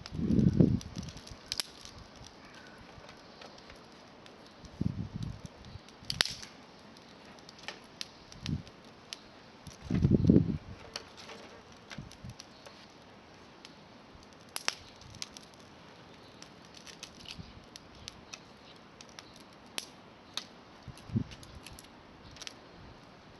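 Wood campfire crackling, with scattered sharp pops and clicks, broken by a few low muffled thumps, the loudest at the start and about ten seconds in.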